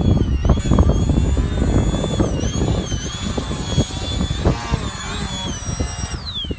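Electric motor of a control-line profile model plane whining, its pitch wavering up and down as it circles, under heavy wind buffeting the microphone. About six seconds in, the motor cuts and its whine falls away steeply in pitch.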